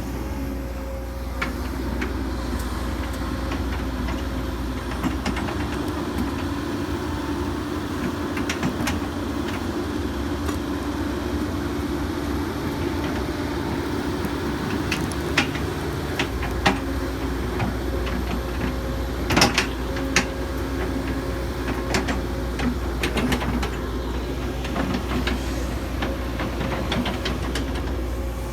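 Hitachi 135US excavator's diesel engine running steadily, with a few sharp metal clanks and knocks roughly halfway through.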